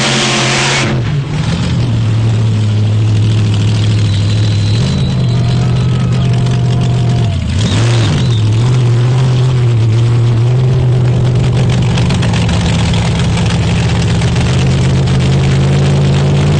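Monster truck engine running loud and steady under high revs, with a brief drop in revs and a climb back up about eight seconds in.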